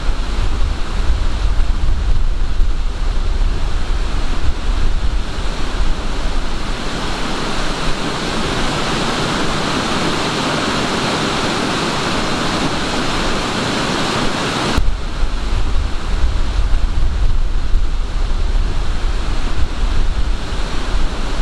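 Waterfall rushing steadily, with wind gusting on the microphone as a low, uneven rumble. The sound changes abruptly about fifteen seconds in, and the wind rumble returns.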